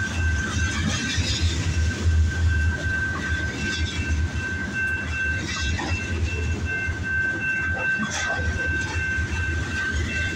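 Freight train rolling by: a steady low rumble with wheel clatter, and a thin high whine that holds through it.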